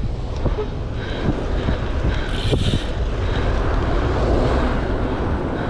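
Wind buffeting the microphone while riding a bicycle, a steady low rumble, with a brief hiss about two and a half seconds in.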